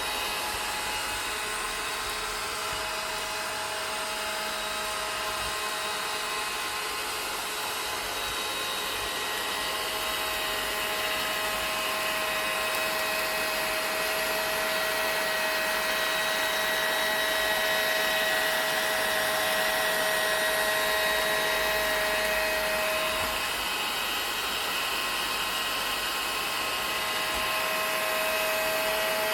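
Vacuum cleaner running steadily: an even rush of air with a motor whine of several steady tones, growing a little louder about halfway through.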